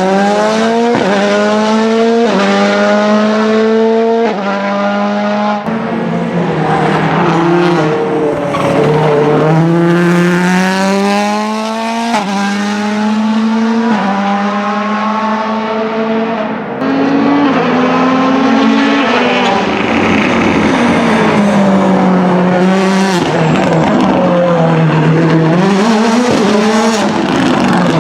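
Ford Fiesta WRC Plus rally car's 1.6-litre turbocharged four-cylinder engine accelerating hard, its pitch climbing and dropping back with each quick upshift, several times over. In the second half the revs rise and fall more unevenly as the car slows and gets on the throttle again.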